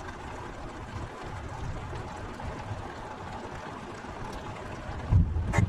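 Heavy rain falling steadily. Near the end a low rumble swells, with a sharp click.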